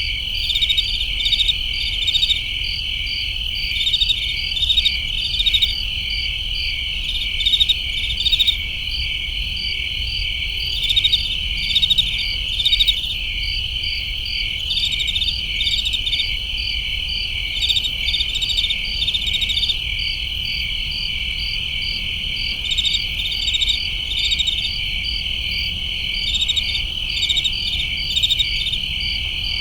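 Night chorus of crickets chirping: a steady high-pitched trill underneath, with overlapping groups of rapid chirps coming every second or so.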